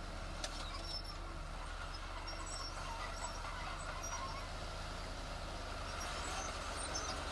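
Heavy earthmoving machinery running steadily, a constant low engine rumble with a few faint clicks and short high squeaks on top.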